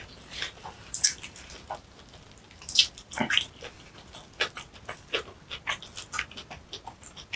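Close-miked wet chewing and lip-smacking from a mouthful of kimchi bibimbap, with irregular smacks, and a wooden spoon scraping and scooping rice in a wooden bowl.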